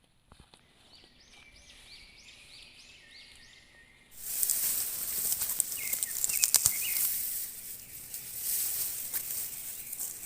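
A bird repeats a short high call, about three times a second. About four seconds in, a much louder crackling hiss with sharp clicks starts suddenly.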